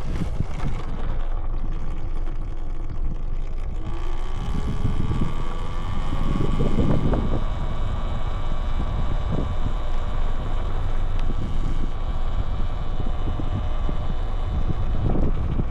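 Electric dirt bike riding across a dry lake bed, with heavy wind buffeting on a handlebar-mounted microphone. The motor's whine rises in pitch as the bike speeds up and then holds steady over a low rumble from the ride.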